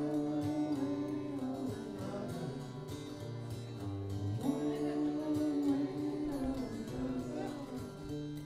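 Strummed acoustic guitar under a man's voice singing long held notes without clear words, in a live solo folk-rock performance.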